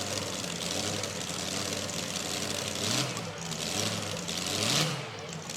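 Modified two-wheel-drive pulling truck's engine idling unevenly, with short throttle revs about three seconds in and again near the end.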